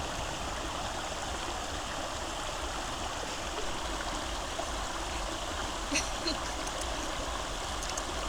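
Steady rushing of flowing river water, with a couple of faint clicks about six seconds in.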